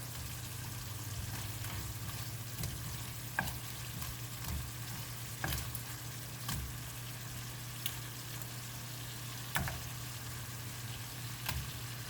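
Thickened red curry sauce sizzling in a pan as crispy fried catfish is stirred into it, with a sharp knock of the utensil against the pan every second or two.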